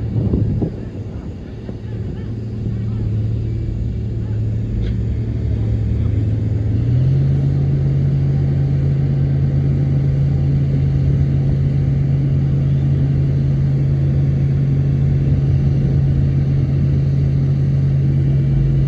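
Shantui bulldozer's diesel engine running steadily. About seven seconds in it steps up to a higher, louder pitch and holds there. A couple of heavy low thumps come at the very start.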